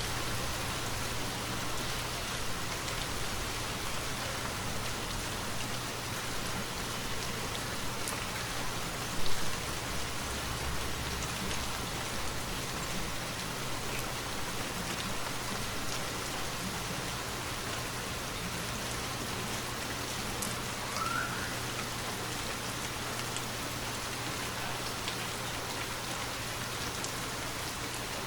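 Steady rainfall, an even hiss of many drops pattering on surfaces, with one sharp louder tap about nine seconds in.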